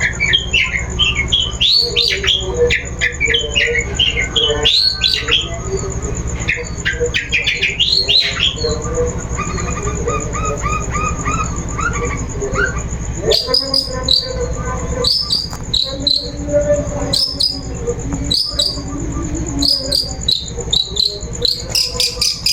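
Long-tailed shrike (cendet) calling, used as a lure sound. It gives a fast run of harsh chattering notes. From about halfway through, the run breaks into sharp separate calls at roughly two a second.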